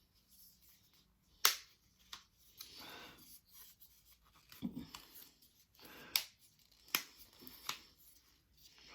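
Hands working a Magic folding puzzle: rustling and rubbing, with a dull knock and four sharp clicks, the first about a second and a half in and the loudest.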